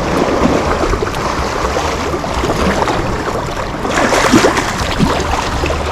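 Steady rushing noise of moving water, with a low rumble underneath; it grows brighter and louder about four seconds in.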